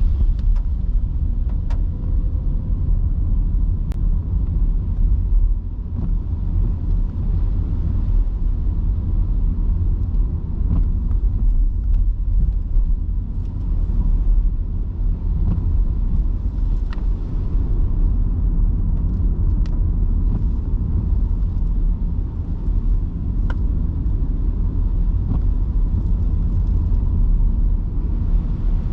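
Electric car driving on wet city streets in heavy rain: a steady low rumble of tyre and road noise with a few faint scattered ticks.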